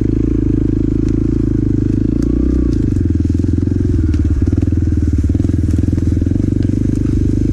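Motorcycle engine running at fairly steady revs while riding, picked up by a microphone inside the rider's helmet, with a brief small rise and fall in revs about two seconds in.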